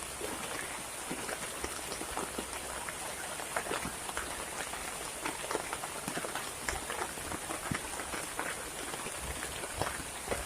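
Heavy rain falling steadily, with individual drops striking close by at irregular intervals.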